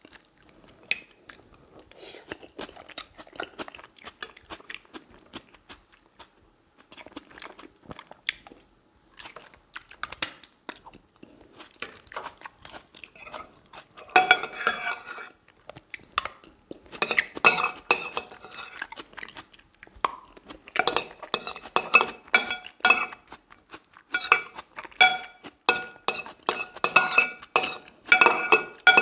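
Close-up chewing of creamy tagliatelle. About halfway through, a fork starts clinking and scraping against the plate again and again, each clink ringing briefly.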